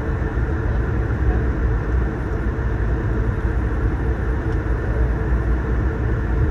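Steady cabin rumble of an Airbus A220-300 with its Pratt & Whitney PW1500G geared turbofan engines: engine and airflow noise, an even low drone with a hiss on top.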